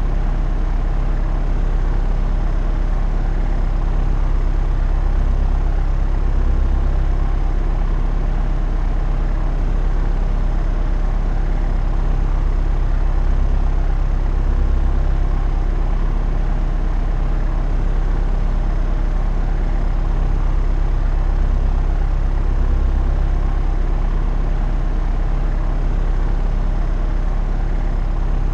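Propeller aircraft in flight: a steady, unchanging drone of engine and propeller, heavy in the low tones.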